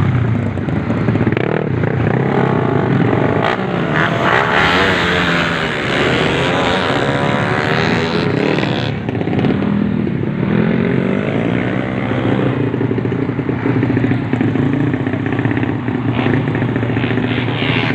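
Racing motorcycle engines revving hard, their pitch rising and falling again and again.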